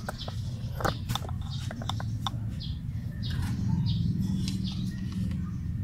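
Birds chirping over a steady low hum, with a few sharp clicks.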